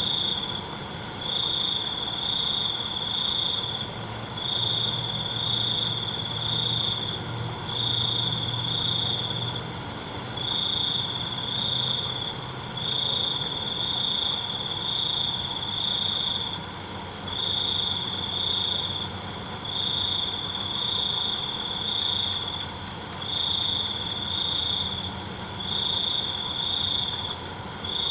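Night chorus of crickets. One loud cricket trills in repeated phrases of one to two seconds with short pauses, over a steady, higher-pitched hum of other insects.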